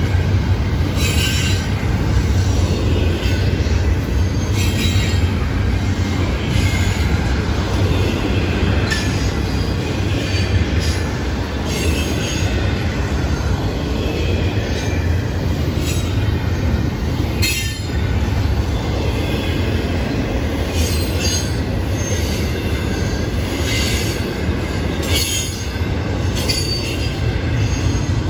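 Double-stack intermodal freight cars rolling past: a steady rumble of steel wheels on the rails, with brief high-pitched wheel squeals every few seconds.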